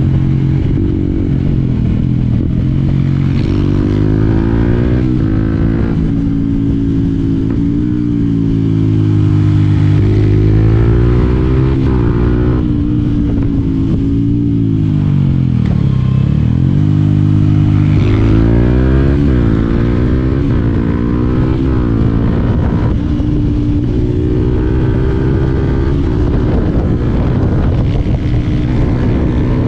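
Yamaha WR125X's single-cylinder four-stroke engine under way, revving up and dropping back repeatedly as it goes through the gears. It slows to a low about halfway through, then picks up again.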